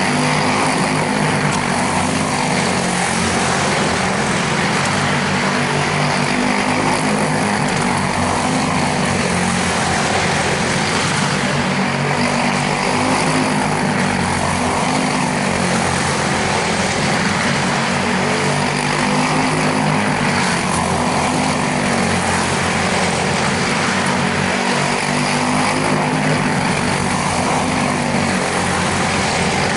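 Quarter midget race cars' single-cylinder Briggs & Stratton Animal four-stroke engines running at racing speed, the engine pitch rising and falling continuously as the cars go round the track.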